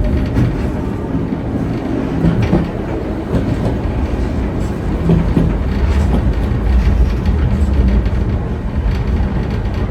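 Heritage steam train running along the track: a steady low rumble with scattered clatter from the wheels and carriages.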